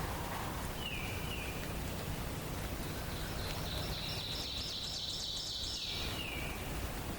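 A songbird calling in a forest dawn chorus: a short high call about a second in, then a quick run of rapid high notes from about three and a half to six seconds in. A steady low rumble lies under it.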